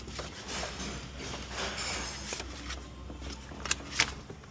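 Workshop handling noise as parts and hand tools are moved during an alternator removal: shuffling and scraping with scattered clicks, and two sharp knocks in quick succession near the end.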